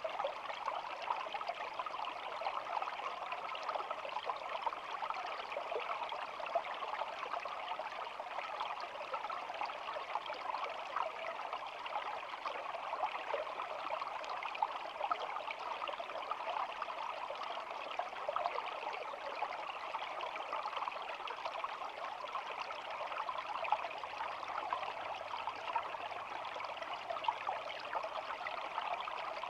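A shallow stream babbling steadily, a continuous rush of flowing water with fine splashy detail.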